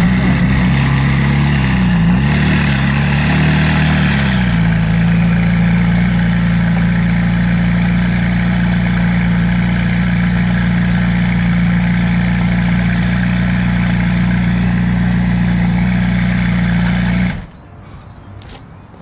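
McLaren 675LT's twin-turbo V8 idling. Its pitch wavers briefly in the first few seconds, then holds steady until the engine is switched off about 17 seconds in.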